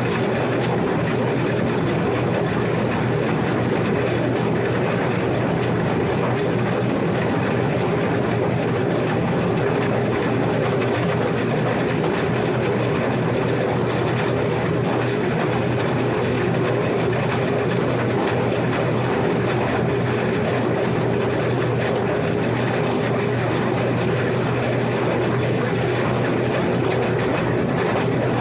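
Case IH 2388 combine running steadily while cutting wheat: the diesel engine and threshing machinery make an even, unbroken mechanical noise with a constant low drone.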